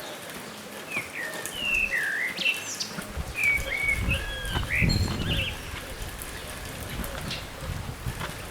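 Wild bird calls: a run of short whistled notes that swoop up and down, between about one and five seconds in, over a steady outdoor hiss. A low rumble swells briefly near the middle.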